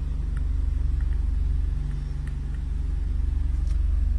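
Volkswagen Golf 7 R's turbocharged 2.0-litre four-cylinder engine idling, a steady low rumble heard inside the cabin, with a few faint clicks.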